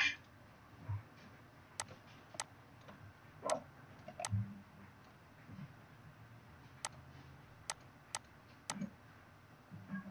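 Computer mouse clicks: about eight short, sharp clicks at irregular intervals over quiet room tone.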